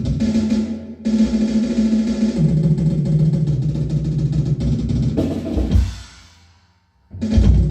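Loud music driven by fast drum-kit playing, with busy bass drum and snare over a low pitched bass part. It dips briefly about a second in, fades out around six seconds and cuts back in loud near the end.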